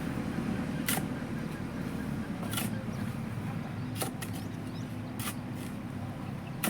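Tractor engine running steadily, with sharp clicks every second or so.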